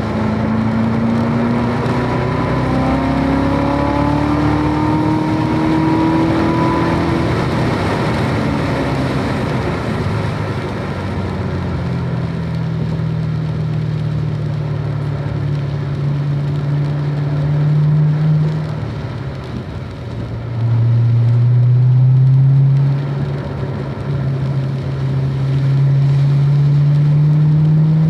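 Car engine under hard acceleration, the pitch climbing for several seconds before falling away at a lift about eight seconds in. It then pulls steadily, dips briefly near twenty seconds and climbs again, over a continuous hiss of tyres on a wet track.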